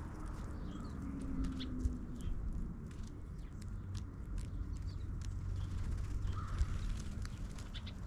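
Birds chirping faintly and sporadically over a steady low rumble, with scattered light clicks.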